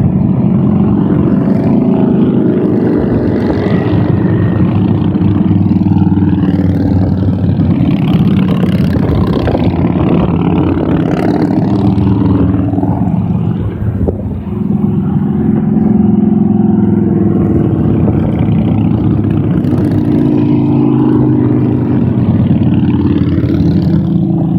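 A procession of motorcycles riding past, many engines running together in a loud, continuous drone whose pitch shifts as bikes come and go, with a brief lull about fourteen seconds in.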